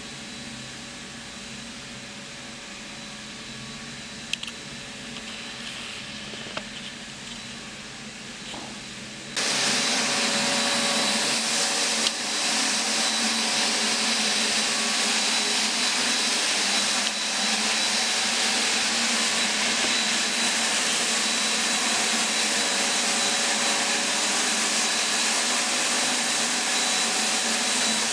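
Low steady hum, then about nine seconds in a loud motor with rushing air switches on abruptly and runs steadily, with a faint high whine over it.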